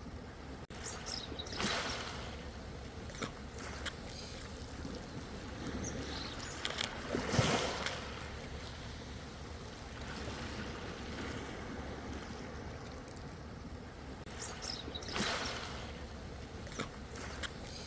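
Ocean waves washing in, with a steady hiss of moving water and three larger splashes a few seconds apart, the loudest about halfway through.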